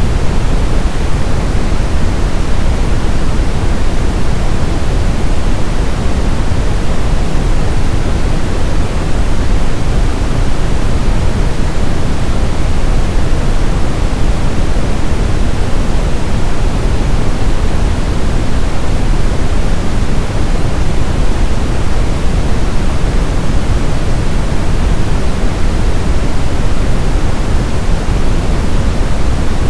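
Steady brown noise: a constant, even rush of random noise weighted heavily toward the low end, like a deep rumble, with no change or events.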